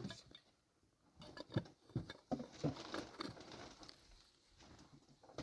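A run of soft, irregular taps and knocks, starting about a second in and thinning out after the middle.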